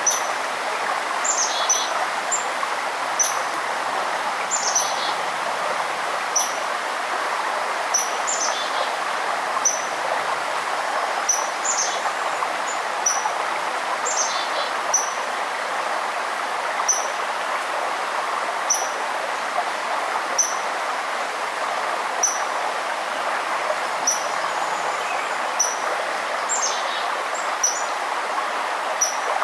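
Steady rushing of a forest river, with songbirds calling over it: one bird repeats a short high chirp about every second and a half, and others add occasional quick descending calls.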